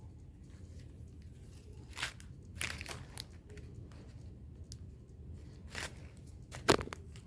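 Paper being handled, with scattered short crinkling and tearing sounds a few seconds apart and a sharper knock near the end.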